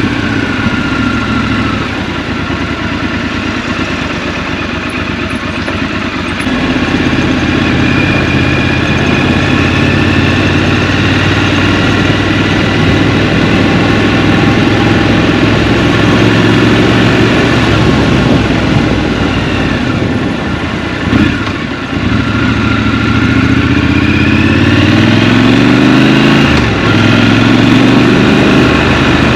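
Scrambler motorcycle engine running while riding. The throttle opens about a quarter of the way in, the engine note dips briefly about two-thirds through, then climbs in pitch under acceleration near the end.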